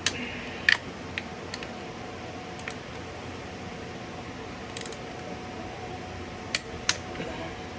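Click-type torque wrench tightening bolts to 65 foot-pounds, giving several sharp clicks, two close together near the end, over a steady shop hum.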